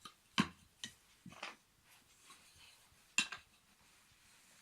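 Wooden toy train track pieces clacking together as they are picked up and set down: a few sharp knocks, the loudest just under half a second in and just after three seconds in.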